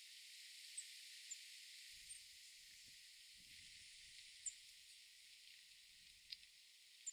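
Faint garden ambience: a steady high hiss with a few short, high bird chirps scattered through it.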